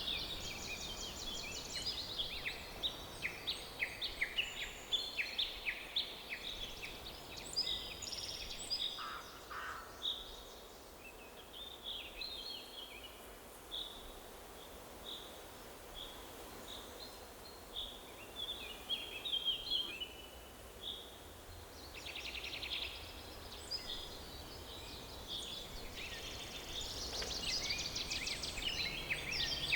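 Forest bird chorus: several songbirds singing overlapping chirps and trills, busy at first, thinner in the middle and busiest near the end. A faint steady background hiss of outdoor ambience lies beneath.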